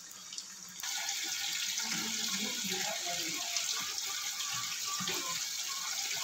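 Sliced onions sizzling in hot oil in an aluminium kadhai as they are stirred: a steady frying hiss that starts suddenly about a second in.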